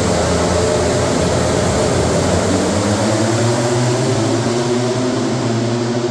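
A steady engine drone with a loud hiss over it, its pitch holding level from about three seconds in.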